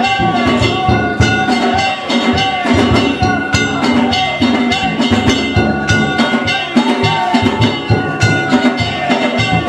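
Danjiri festival music: a fast, even run of taiko drum beats mixed with ringing metal gongs, played on the float as it is pulled, with a wavering high pitched line over the top.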